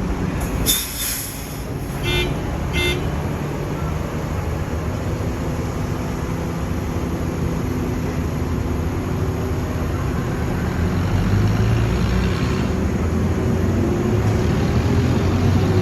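Heavy diesel engine of a crane running steadily under load, growing a little louder in the second half. A sharp knock comes under a second in, and two short horn toots follow at about two and three seconds.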